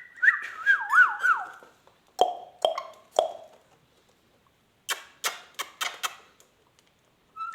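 Ringneck parrot whistling a tone that wavers up and down, then giving three short sharp calls and a quick run of five sharp chirps, with a brief whistle near the end.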